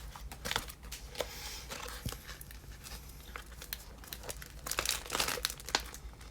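Foil wrapper of a Pokémon XY booster pack crinkling as it is handled and torn open, in scattered irregular crackles.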